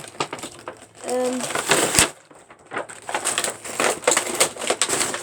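Toy-set packaging being opened and handled: irregular crinkling and crackling bursts with scattered clicks and one sharp snap about two seconds in.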